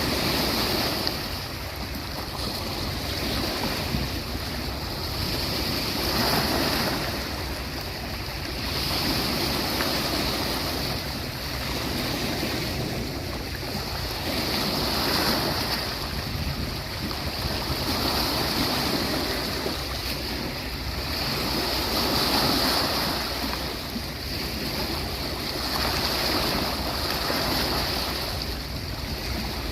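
Sea waves breaking and washing on the shore, swelling and easing every few seconds over a steady low rumble.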